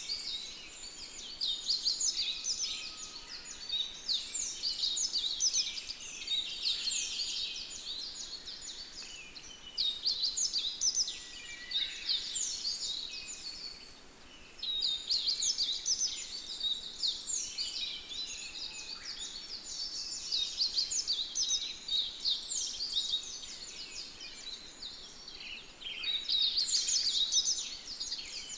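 A chorus of many small songbirds singing at once: dense, overlapping high chirps and trills that swell in bouts every few seconds, with a short lull midway.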